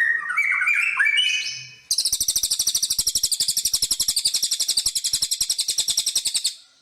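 Songbird singing: a run of varied whistled notes sliding up and down, then about two seconds in a fast, even trill of high notes, roughly ten a second, held for over four seconds before it cuts off suddenly.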